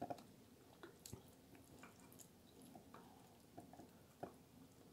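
Faint, wet chewing of soft, cheesy eggplant parmigiana, with scattered soft clicks as a metal fork works in a glass baking dish.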